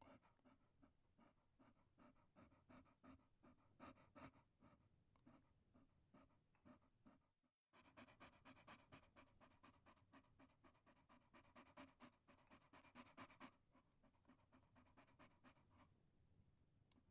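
Chihuahua panting faintly in quick, rhythmic breaths, with a brief break about seven and a half seconds in.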